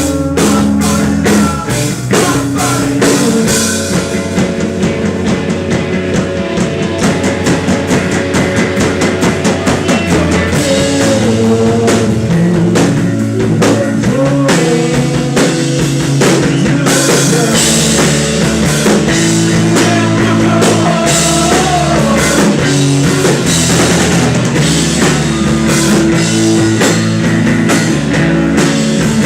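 Live rock band playing: drum kit keeping a steady beat under electric guitar and bass, loud and unbroken.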